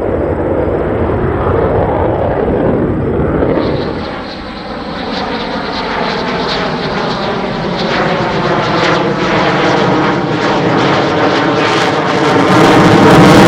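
F-16 fighter jet's engine noise during a demonstration pass, loud and continuous. It dips about four seconds in, then builds with a sweeping, phasing quality as the jet comes closer, loudest near the end.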